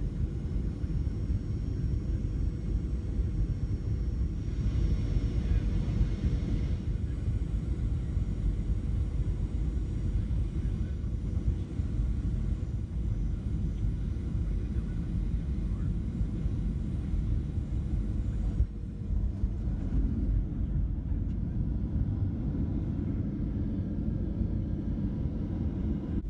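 Airliner cabin noise: the steady low rumble of the jet engines and airflow heard from inside the cabin, with a faint steady hum. A brief break about two-thirds of the way through.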